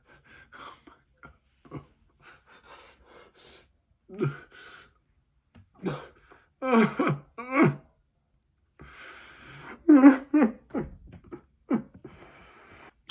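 A man's heavy breathing, gasps and coughs, with a few strained, wavering moans partway through: his pained reaction to the burn of an extremely hot chili chip.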